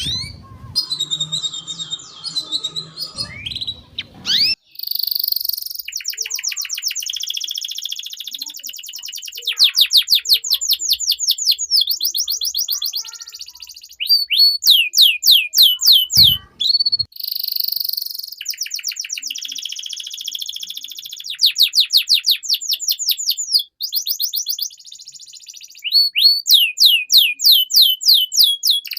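Domestic canary singing a long, fast song made of trills: runs of sharp notes repeated many times a second, switching from one roll to another every second or two with short breaks. There is a single dull thump about sixteen seconds in.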